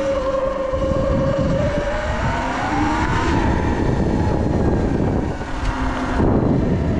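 Sur-Ron electric dirt bike's motor whining as it rides, the whine climbing in pitch about three seconds in as the bike speeds up, then easing off. A steady noisy rumble of wind and tyres runs beneath it.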